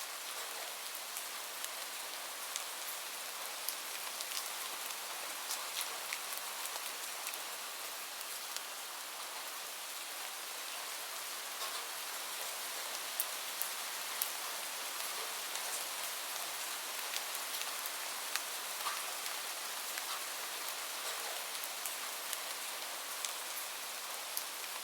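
Steady gentle rain, an even hiss, with a fire crackling over it in scattered sharp pops and clicks.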